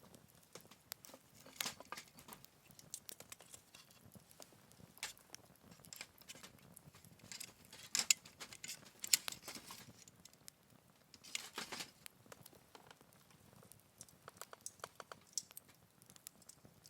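Wood fire crackling in a Picogrill 398 fire pit: irregular sharp snaps and pops over a faint hiss, with a few louder clusters of crackles.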